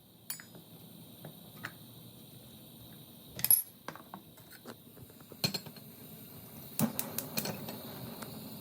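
Kitchen utensils and dishes clinking and knocking in a series of separate taps, the loudest about three and a half seconds in and a quick cluster of clinks near seven seconds.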